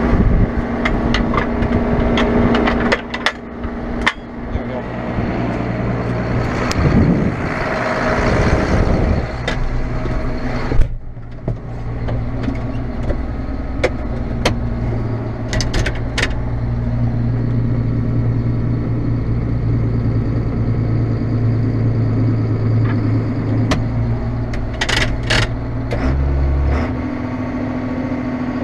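Farm tractor's diesel engine running steadily, with scattered clicks and knocks and one loud clunk about eleven seconds in.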